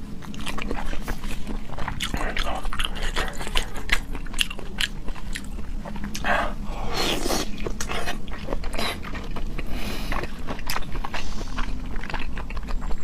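Close-miked wet chewing of raw salmon sashimi with salmon roe, a dense run of small mouth clicks and smacks.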